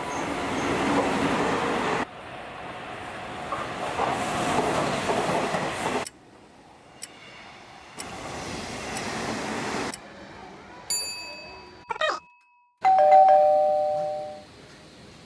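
Nishitetsu electric trains running along station platforms, heard as a steady rushing rumble in short cut-together clips. A couple of short countdown tones follow, then about thirteen seconds in a loud two-note ding-dong chime rings out and fades: the quiz's answer-reveal cue.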